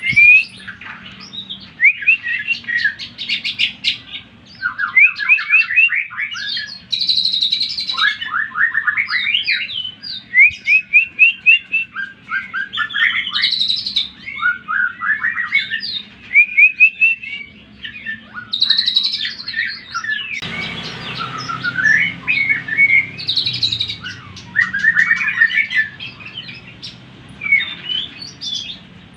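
Greater green leafbird (cucak ijo) singing a loud, fast, varied song of rapid trills, repeated notes and sweeping whistles with only short gaps, the kind of song used to provoke other leafbirds. A hiss joins the song about two-thirds of the way through and fades over a few seconds.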